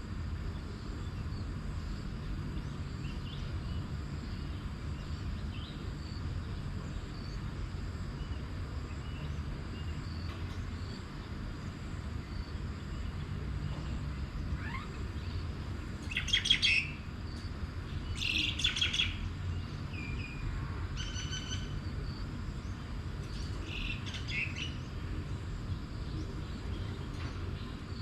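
Birds calling in short bursts over a steady low rumble. The loudest calls come just past halfway, with more a couple of seconds later and near the end.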